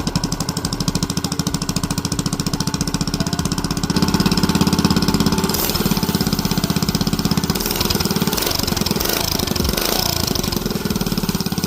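Mini bike's small single-cylinder engine running with a rapid, even firing beat, getting louder about four seconds in.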